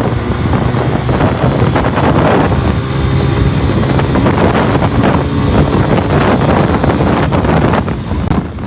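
Suzuki 150cc motorcycle's single-cylinder engine running steadily at motorway speed, under heavy wind noise on the microphone.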